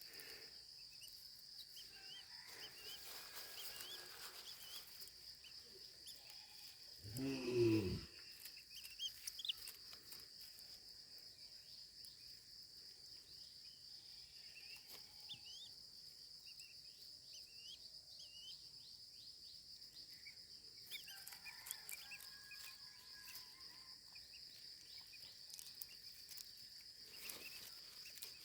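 A steady high-pitched insect drone with scattered short bird chirps over it, and one brief louder, lower-pitched sound about eight seconds in.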